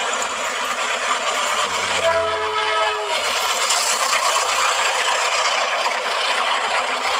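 Train sound effect: a train running with a steady rushing rumble, and a horn sounding briefly about two seconds in.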